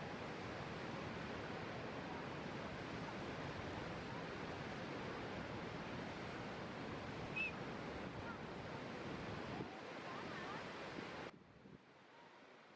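Athirappilly waterfall's falling water making a steady, dense rush. About eleven seconds in, it drops abruptly to a much fainter level.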